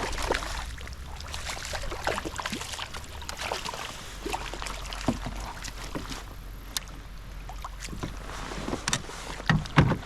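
Handling noise in a fishing kayak while a small smallmouth bass is brought in: water splashing against the boat with scattered clicks and knocks, and a heavier thump near the end.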